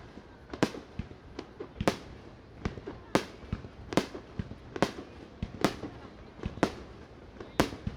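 Aerial fireworks bursting in a steady series of sharp bangs, about one loud bang every second, with smaller pops between.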